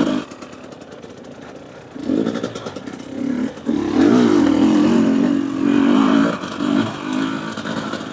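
Two-stroke Husqvarna TE250 enduro motorcycle engine under way at low speed. It is low at first, picks up about two seconds in, and is loudest with a wavering pitch from about four to six seconds. It then eases off, with a short blip of the throttle near the end.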